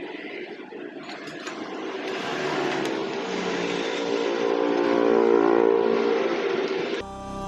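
A motor vehicle's engine running, growing gradually louder over about five seconds and then easing off.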